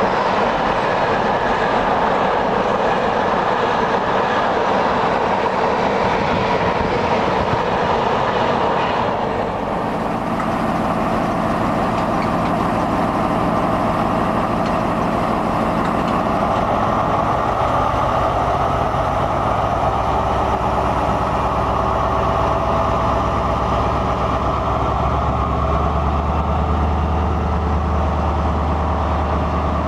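A container freight train rolling through, its wagon wheels running over the rails with a steady rumble and clatter. About nine seconds in this gives way to a CrossCountry High Speed Train passing along the platform, its coaches running by while the deep diesel hum of a Class 43 power car grows louder near the end.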